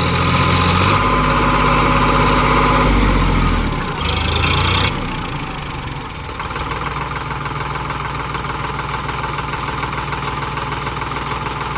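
Sonalika DI 734 tractor's diesel engine running hard under load for about four seconds as the stuck tractor fails to pull free, its note sagging, then a brief second rev. About six seconds in it drops to a steady idle.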